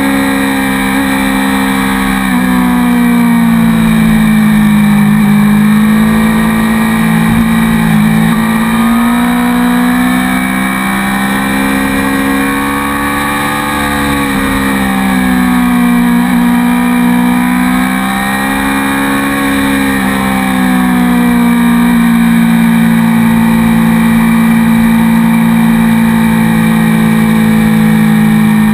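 A sport motorcycle's engine heard from on board the moving bike, with wind rushing past the microphone. The engine note dips and climbs several times as the rider eases off and gets back on the throttle through curves, then holds steady for the last several seconds.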